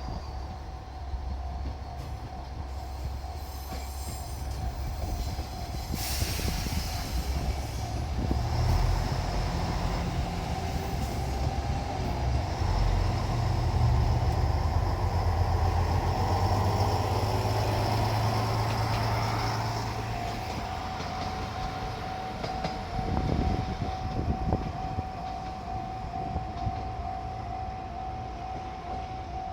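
Diesel railcar passing over a Japanese level crossing while the crossing alarm rings steadily; the low engine and wheel noise swells about a third of the way in and fades after about two-thirds.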